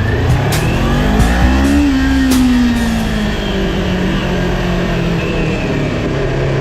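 A car engine revs up and winds back down, with background music.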